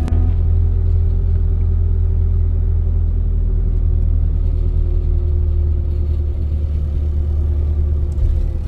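A car driving, with a steady low rumble.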